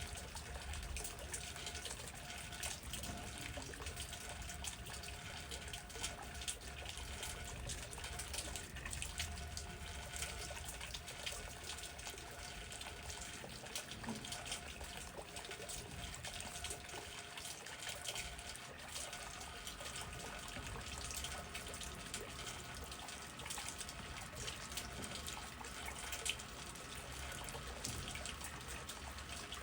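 Steady rain falling, dense small drop ticks over an even hiss, with a low rumble of wind underneath.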